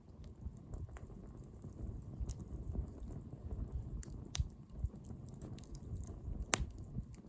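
Wood bonfire burning: a steady low rumble of flames with scattered sharp crackles and pops, the loudest pop about six and a half seconds in.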